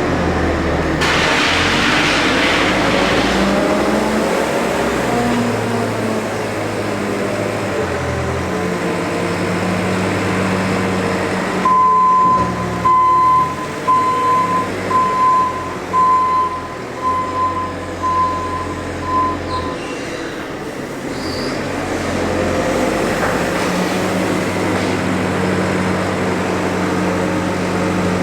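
New Holland CX8.70 combine harvester running steadily while cutting wheat, its engine and threshing drone heard from inside the cab. About twelve seconds in, a high electronic warning beeper sounds about ten times in quick, even succession, then stops.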